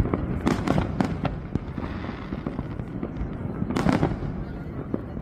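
New Year fireworks going off: a dense run of bangs and crackles over a continuous low rumble, with the loudest burst just under four seconds in.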